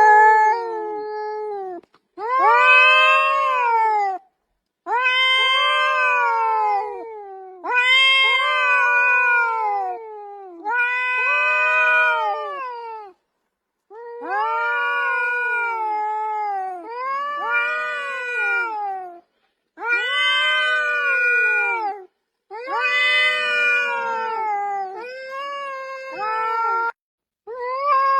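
An animal wailing in about ten long drawn-out calls, each around two seconds, rising and then falling in pitch, with short breaks between them.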